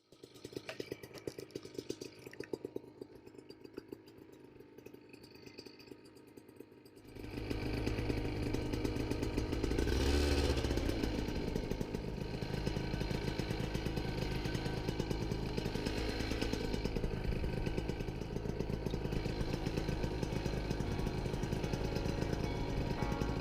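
Vittorazzi Fly Evo 100 single-cylinder two-stroke paramotor engine idling unevenly, then opened up about seven seconds in to a loud, steady high-power run.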